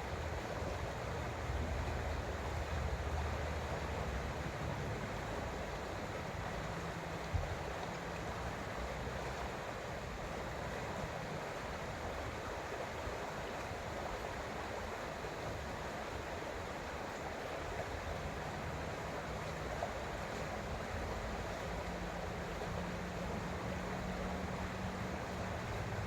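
Creek water flowing steadily. A faint low hum comes and goes underneath, and there is one brief click about seven seconds in.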